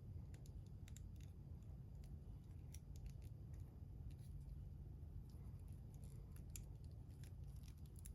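Faint, irregular small clicks and ticks of hands handling the plastic figure and its packaging, over a steady low hum.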